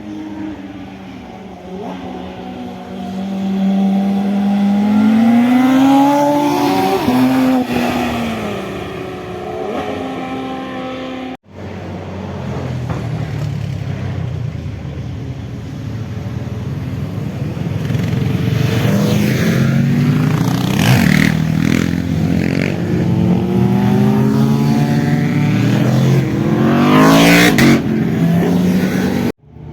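Motorcycle engines accelerating hard, the pitch climbing and dropping again and again through gear changes, with a loud pass-by near the end. The sound cuts off abruptly about a third of the way in and again just before the end.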